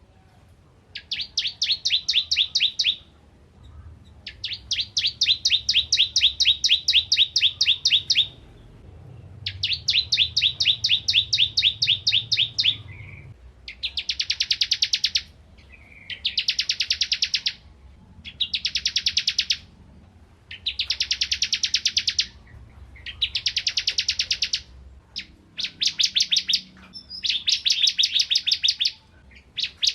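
Ciblek kristal (crystal prinia) singing in loud bouts of rapid, evenly repeated high chirping notes, each bout lasting two to four seconds with short pauses between them. The later bouts are shorter and denser.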